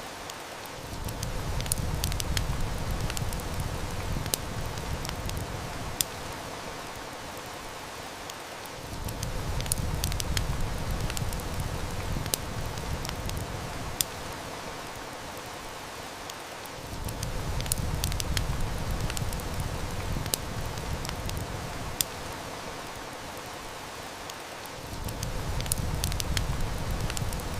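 Steady heavy rain hiss mixed with a wood fire's crackle, sharp snaps scattered throughout. A low rumble comes in and drops out again about every eight seconds.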